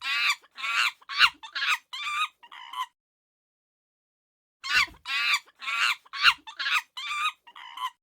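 Monkey calling in two bouts of short, high-pitched chattering cries, about six or seven in each, with a pause of nearly two seconds between them.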